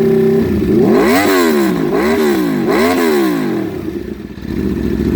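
2015 Aprilia RSV4 Factory's V4 engine revving through an Austin Racing GP2 slip-on exhaust with the baffle removed. It is held at a high rev briefly, drops, then gets three quick throttle blips about a second apart, each rising and falling, before settling to a steady lower note near the end.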